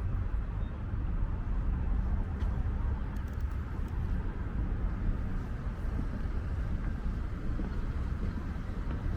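Wind buffeting the microphone, a steady low rumble, over general city-street ambience.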